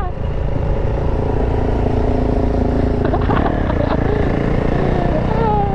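Dirt bike engine running steadily, its note changing about three seconds in.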